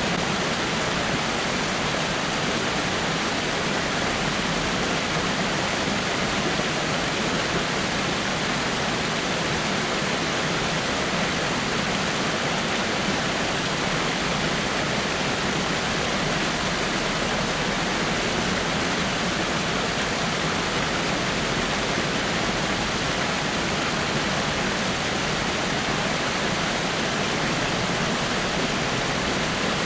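Water falling over rocks, a steady even rush with no breaks or changes.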